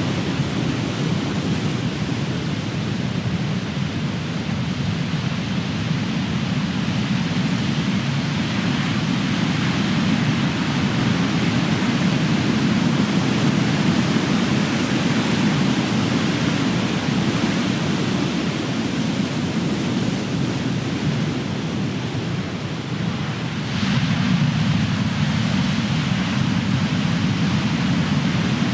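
Ocean surf: large waves breaking and crashing on the shore in a continuous roar that swells and eases, with a fresh wave breaking about 24 seconds in.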